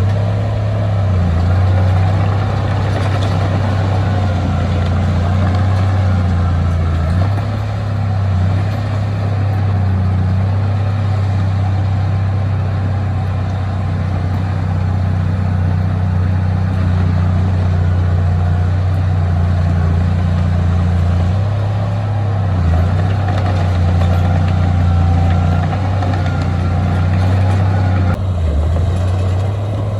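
Heavy diesel engine of earthmoving machinery running steadily with a low, even drone, its note dipping and shifting slightly a few times.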